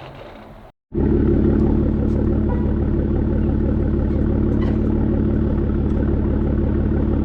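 Ford Raptor's 3.5-litre twin-turbo EcoBoost V6 heard through a Borla Atak aftermarket exhaust, close to the tailpipes while the truck drives at a steady throttle. The exhaust note is loud and holds an even pitch, starting abruptly about a second in after a moment of silence.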